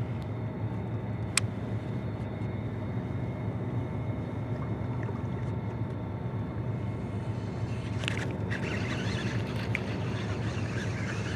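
Steady drone of a boat motor running, with one sharp click about a second and a half in and a few brief scraping sounds near the end.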